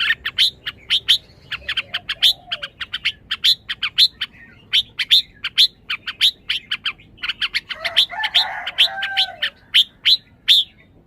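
Red-whiskered bulbul giving a rapid series of short, sharp chirps, several a second. Lower warbling phrases come in twice, briefly near two seconds and longer at about eight seconds.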